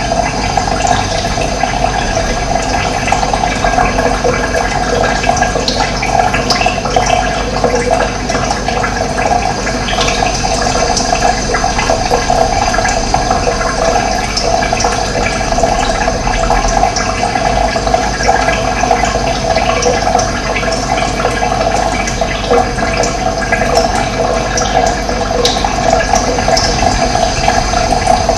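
Running water flowing steadily, a loud, even rush without pause.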